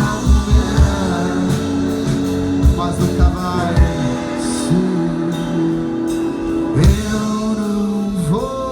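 Live indie rock band playing, with held, gliding singing over guitar and bass; low drum thumps in the first second.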